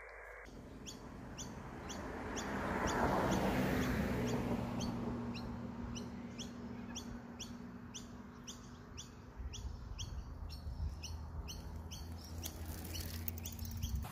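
A bird calling over and over in short, high, descending chirps about twice a second. A rushing noise swells and fades around three seconds in, over a steady low hum.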